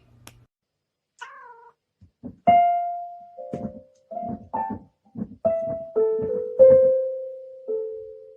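A cat meows once, briefly. Then piano notes are struck one or two at a time at uneven intervals, each with a dull key knock, ringing on and fading, the last ones held longest.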